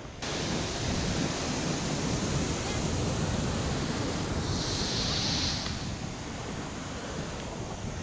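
Steady rushing noise of falling water, starting abruptly just after the start, with a brief brighter hiss about five seconds in.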